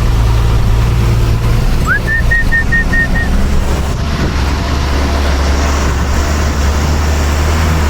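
Truck engine running with a steady low drone, its note dropping a little about a second and a half in. About two seconds in, a short high whistle slides up and breaks into six quick pips at one pitch.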